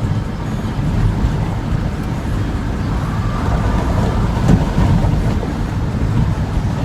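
Road and engine noise inside a moving truck's cab: a steady low rumble with some wind noise.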